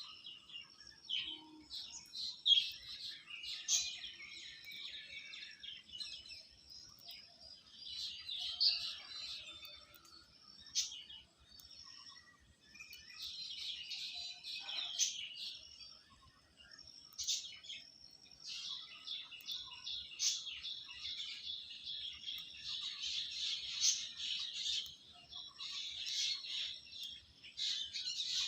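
Birds chirping and twittering in busy bouts of rapid, high calls, with short lulls between bouts.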